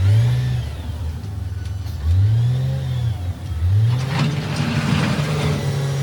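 Heavy diesel engine of earthmoving machinery revving up and falling back again and again, about every two seconds. A burst of clattering noise comes about four seconds in.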